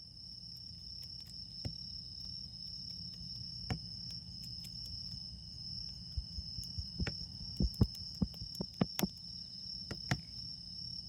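Autumn insects trilling in one steady, unbroken high tone, over a small wood fire crackling with sharp pops that come thicker and louder in the second half.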